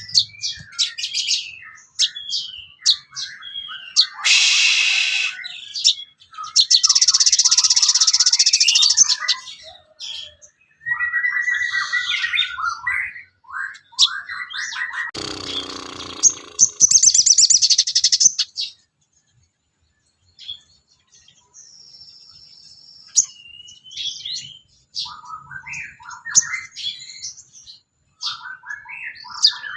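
A sogon bird singing a varied song of quick chirps, whistled notes and dense buzzy trills, with a short pause about two-thirds of the way through.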